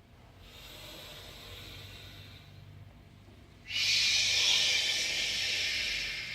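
Soft breathing, then about four seconds in a loud, long 'shhh' hiss of breath blown out through the teeth: the 'she' sound of the Six Healing Sounds breathing exercise.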